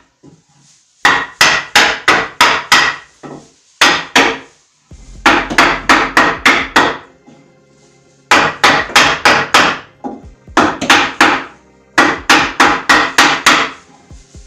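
Hammer striking a wooden block held against the boards, knocking dowelled wooden boards together. Repeated runs of quick sharp blows, about four a second, broken by short pauses.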